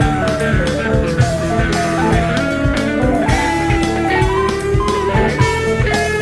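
Rock music with electric guitar playing sliding, bending lead lines over a steady drum beat.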